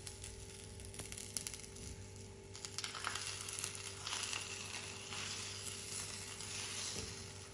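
Egg-in-toast with a chopped vegetable filling sizzling as it fries in a nonstick pan. The sizzle grows louder about two and a half seconds in.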